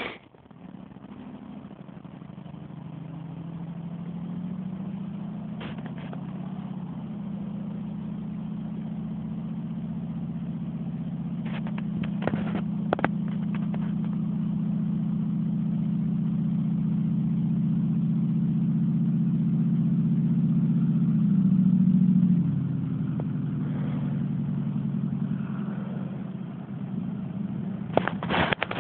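Ford F-150's 4.6 V8 running through true dual exhaust with no catalytic converters, a steady engine note that grows gradually louder, then drops in pitch and level about 22 seconds in. A few sharp clicks sound about halfway through.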